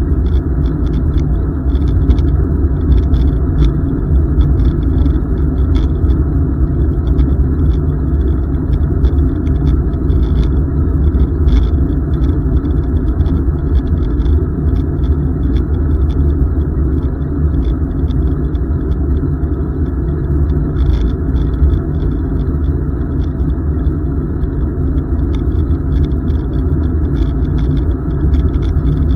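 Steady low rumble of wind and road noise on the microphone of a bicycle being ridden along.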